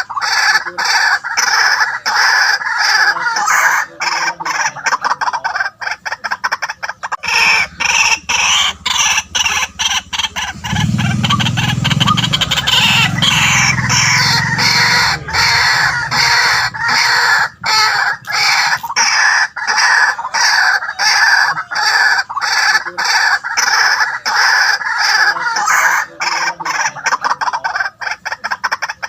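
White-breasted waterhen calling continuously, a rapid run of loud, repeated harsh notes. A lower-pitched sound joins for a few seconds in the middle.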